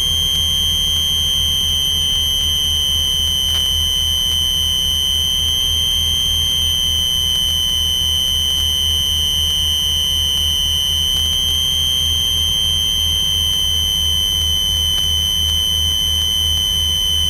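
Twin piston engines of a Piper PA-34 Seneca heard through the cockpit intercom as a low, evenly pulsing drone, under a steady high-pitched whine.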